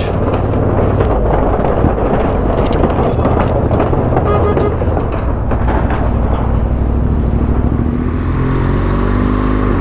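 Motorcycle riding, heard from the bike: a Yamaha Ténéré 700's parallel-twin engine running under wind and road noise. There are knocks and rattles in the first few seconds as it crosses a rough old bridge, and the engine's pitch rises near the end as it picks up speed.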